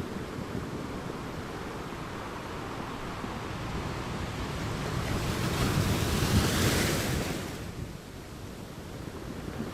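Ocean waves on a beach: a steady low rumble of surf, with one wave breaking and washing up as a hissing swell about halfway through, fading a couple of seconds later.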